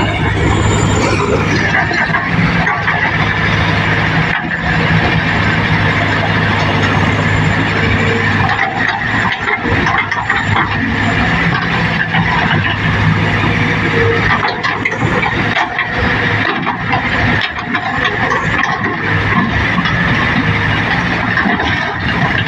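Diesel engine of heavy earthmoving machinery running steadily, with irregular mechanical knocks and clatter over it.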